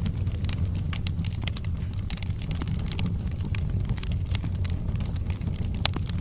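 Wood fire burning in a fireplace: a steady low rumble of the flames with frequent small crackles and pops from the burning logs, one sharper crack near the end.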